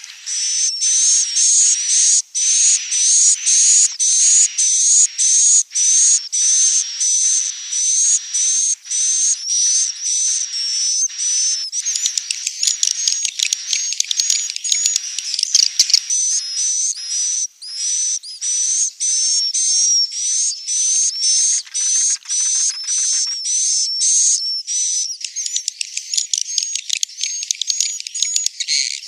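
Swiftlets calling: a continuous fast run of high, thin chirps, about two a second, the kind of swiftlet call recording played as a lure to draw swiftlets to roost and nest.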